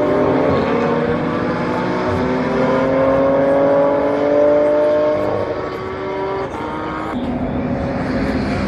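GT race car engines at full throttle on a circuit, the engine note climbing steadily in pitch for about five seconds as the cars accelerate, then fading away; the sound changes abruptly about seven seconds in.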